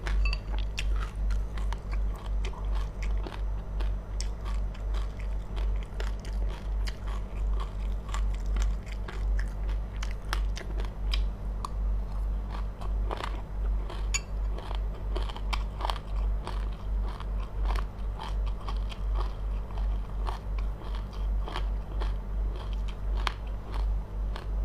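A person chewing crunchy seeds close to the microphone: sharp crackling crunches over a steady, rhythmic low thud of the chewing jaw.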